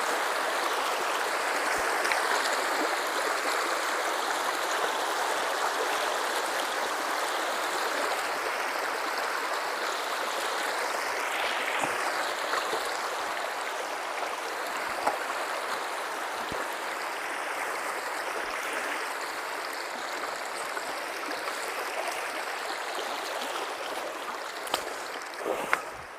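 River water rushing steadily as it is crossed on foot, with a few faint sharp knocks; it grows a little quieter near the end.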